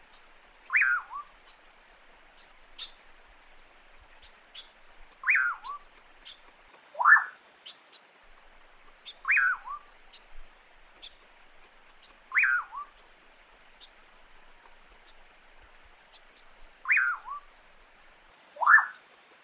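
A bird calling: a clear whistled note that falls in pitch and ends in a short hook, repeated about every four seconds. Twice a single louder whistle rises in pitch.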